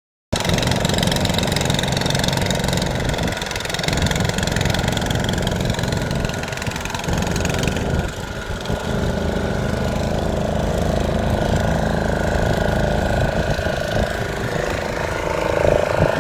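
Boat engine running steadily, a continuous low, even drone.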